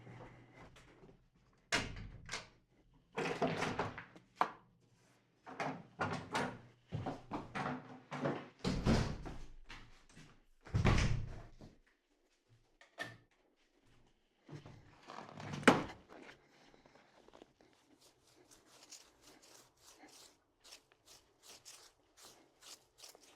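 A long series of irregular knocks, thumps and bangs, like doors or drawers being handled, with the single loudest bang about 16 seconds in and lighter clicks toward the end.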